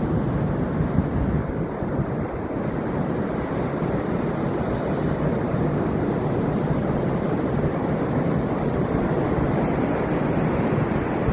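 Ocean surf rushing on a beach, mixed with wind buffeting the microphone: a steady, bass-heavy rushing noise without any distinct events.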